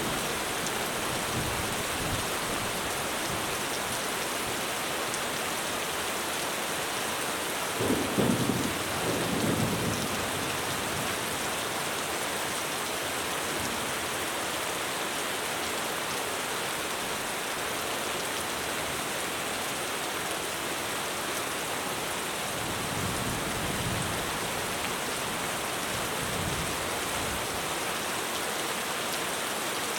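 Heavy rain pouring steadily on a roof, with a roll of thunder about eight seconds in, the loudest moment, and fainter low rumbles later.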